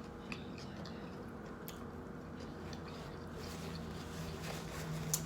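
Close-miked chewing of a messy grinder salad sandwich: soft, wet mouth sounds with small clicks. A low steady hum comes in about three and a half seconds in, and a sharp click is heard near the end.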